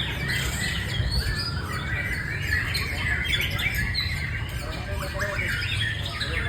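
White-rumped shama (murai batu) singing: a dense, unbroken run of quick, varied whistles and chirps, over a steady low rumble.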